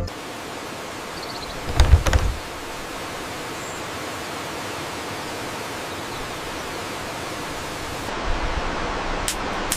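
Steady rushing of a waterfall, with a short cluster of knocks about two seconds in and two sharp clicks near the end.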